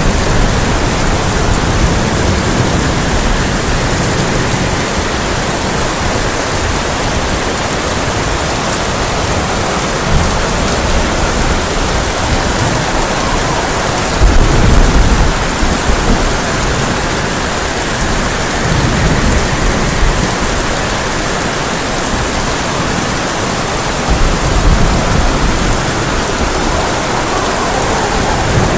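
Heavy rain drumming steadily on a tin roof, with low rolls of thunder about halfway through and again a few seconds before the end.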